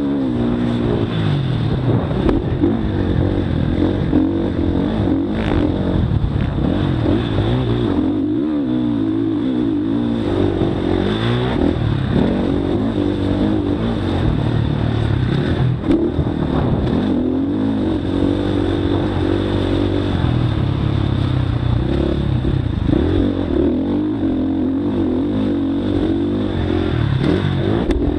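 Motocross bike engine running hard. Its pitch rises and falls again and again as the rider works the throttle and gears.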